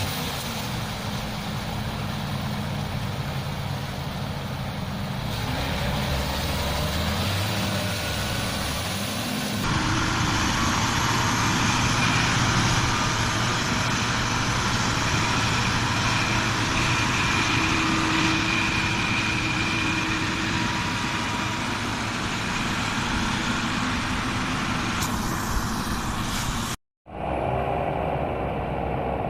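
Tractor engines running steadily, heard across several clips that change abruptly, with a short dropout to silence near the end.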